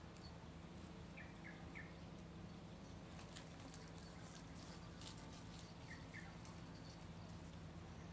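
Near-quiet background with a steady low hum. A small bird chirps faintly: three quick chirps about a second in and two more around six seconds, with a few faint ticks in between.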